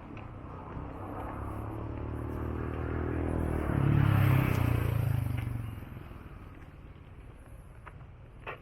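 A motor vehicle passing by, its engine hum swelling for a few seconds and then fading away.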